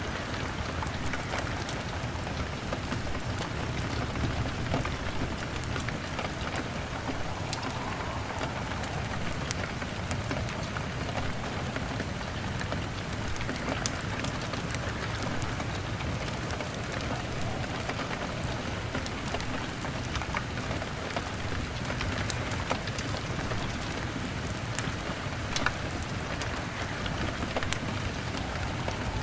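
Steady rain pattering on a window glass, with scattered small pops and snaps of a crackling wood fire.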